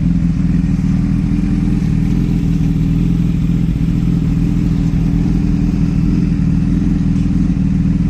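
Motorcycle engine running steadily at a constant speed, a low, even drone with no revving.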